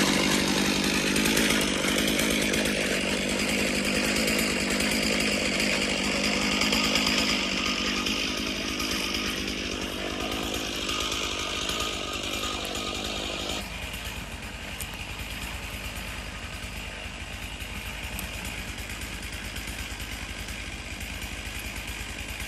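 Stihl MS461 two-stroke chainsaw running steadily on an Alaskan chainsaw mill. It drops noticeably quieter about halfway through.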